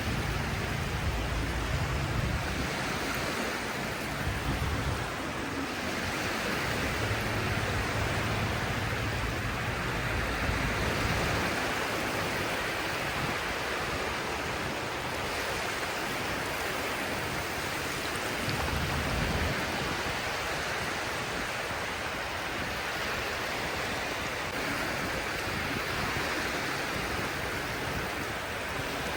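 Sea waves washing ashore in a steady rush of surf, with deeper rumbling surges now and then.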